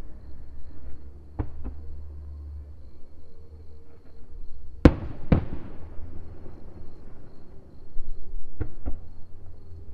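Aerial fireworks bursting: sharp bangs in pairs, the loudest pair about five seconds in with a trailing echo, over a continuous low rumble.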